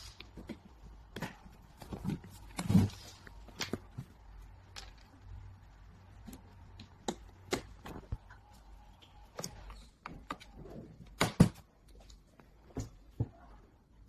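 Irregular clicks and knocks of parts being handled and fitted during assembly, with a faint steady hum under the first part.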